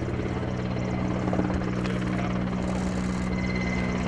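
Helicopter flying, with a steady engine whine over the rapid, even beat of its rotor blades.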